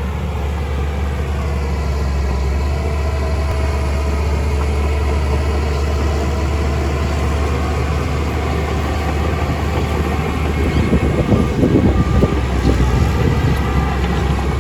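Heavy construction machine's diesel engine running steadily with a deep hum, with a rougher, louder patch of clatter about three-quarters of the way through.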